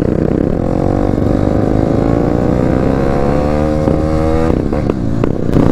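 Motorcycle engine pulling under acceleration while riding, its pitch rising steadily for about four seconds before easing off near the end.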